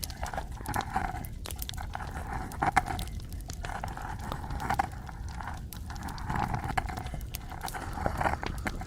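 Close-miked ASMR trigger sounds: irregular sharp clicks and taps, with swells of rubbing or scratching every second or two.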